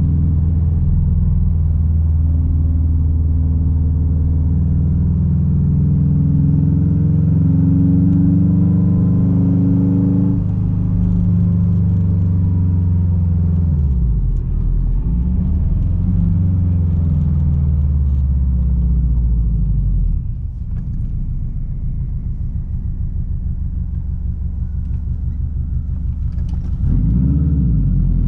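Straight-piped 2006 Subaru WRX STI's turbocharged flat-four running under way: revs climb steadily for about ten seconds, then fall away as the throttle is lifted. The revs dip and pick up a couple of times, run lower and quieter for several seconds, then climb again near the end.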